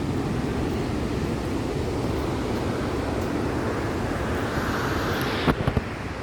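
Steady roar of Victoria Falls' falling water, mixed with wind buffeting the microphone. A few sharp knocks, like handling of the camera, come about five and a half seconds in.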